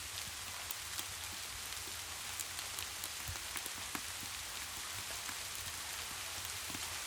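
Steady rain falling: an even hiss with scattered sharp ticks.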